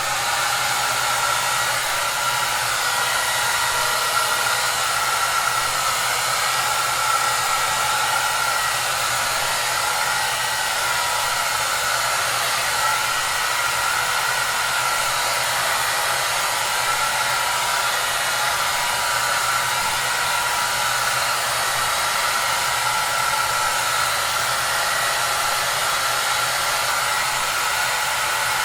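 Hair dryer running steadily: an even rushing noise with a faint steady whine in it.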